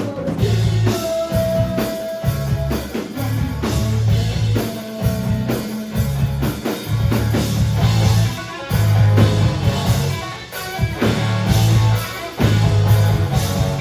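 Live rock band playing an instrumental passage on guitar and drum kit, with a pulsing low end.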